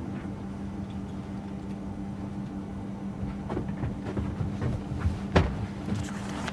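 Steady low hum of an airliner cabin, with a few soft knocks and one sharper knock a little after five seconds in.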